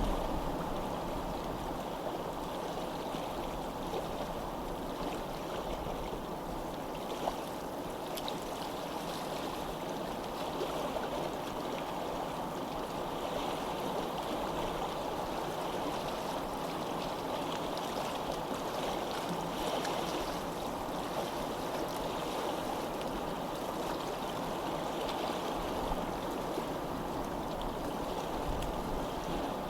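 Running water flowing steadily, like a stream, at an even level throughout.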